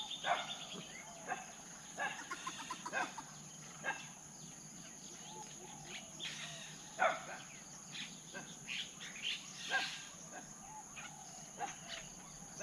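Wild birds giving short, sharp chirps and trills at irregular intervals, over a steady high-pitched insect drone.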